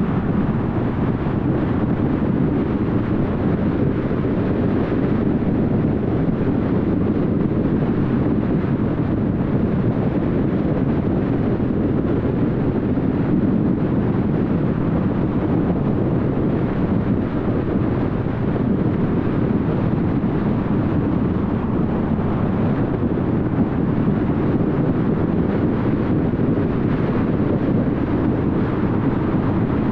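A car cruising at highway speed: steady tyre, road and wind noise with a low engine drone.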